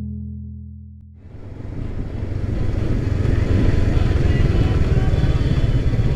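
A low held music tone fades out, and about a second in the onboard sound of a Honda CB500X's parallel-twin engine under way comes up, swelling and then holding steady with a rush of road and wind noise.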